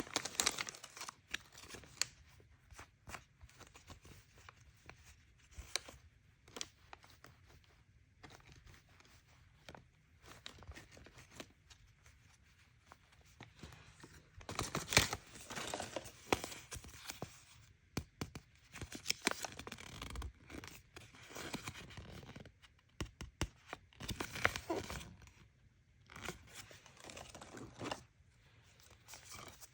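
Surprise-toy packaging being torn open and crinkled by hand, in irregular rustling bursts with small clicks between them.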